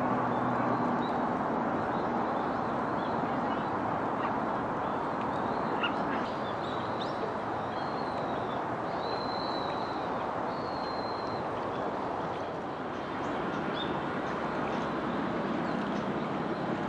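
Birds calling: a few short, thin, high notes about halfway through, over a steady rushing background noise.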